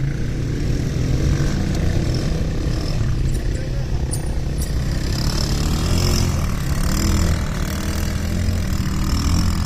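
ATV (quad bike) engine running steadily as it is ridden off-road, the revs wavering up and down a little.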